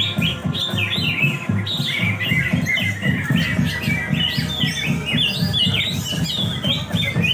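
Greater green leafbirds (cucak hijau) singing fast chirping, sweeping phrases, over music with a steady thumping beat.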